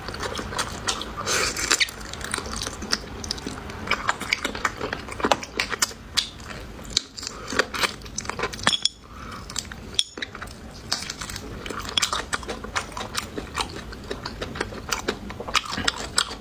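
Close-miked eating of braised pig's trotter: wet chewing and gnawing, with frequent sharp clicks of utensils against dishes.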